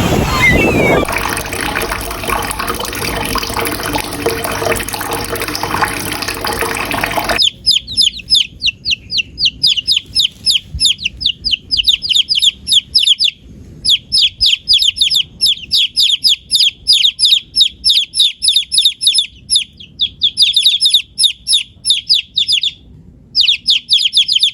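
A steady rushing, watery noise, which cuts off suddenly about seven seconds in. Then a small bird chirps rapidly: long runs of short, high chirps, many a second, broken by brief pauses.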